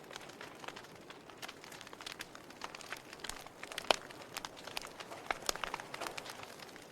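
Wood fire crackling: irregular sharp snaps and pops over a low steady hiss, with one louder pop about four seconds in.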